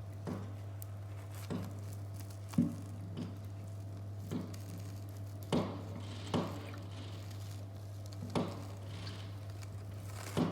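Fireworks going off in the distance as a series of dull bangs at irregular intervals, the sharpest about two and a half seconds in, over a steady low hum.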